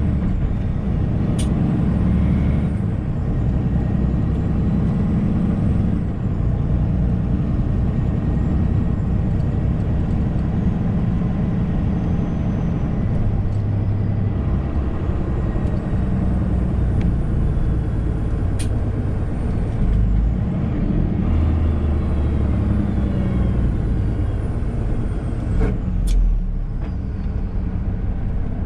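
Semi-truck diesel engine and road noise heard from inside the cab while driving, a steady low drone with three short sharp clicks along the way.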